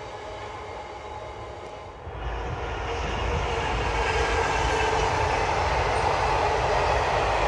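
Freight wagons rolling past on the rails. About two seconds in, a much louder train takes over: an EWS Class 66 diesel locomotive, with its two-stroke EMD V12 engine, passes under power hauling loaded container wagons, and the rumble keeps building.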